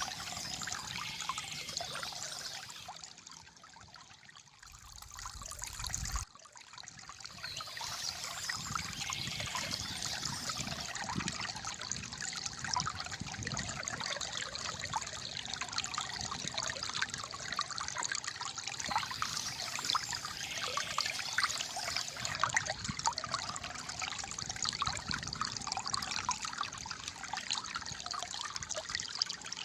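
Water trickling and gurgling steadily, like a small stream. It fades quieter for a few seconds, then cuts back in abruptly about six seconds in.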